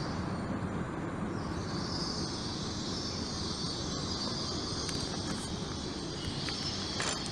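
Train running through a station: a steady rumble with a high hiss riding above it that grows from about a second and a half in.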